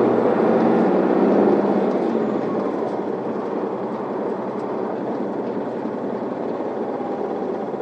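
Interior running sound of an Isuzu Erga city bus: the diesel engine's steady hum mixed with road noise while driving. The sound eases off a little after about two seconds.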